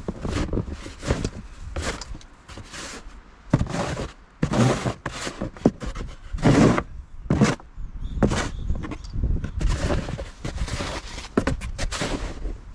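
Snow being shoveled: a series of irregular shovel scrapes and thuds, a few each second, with crunching snow underfoot.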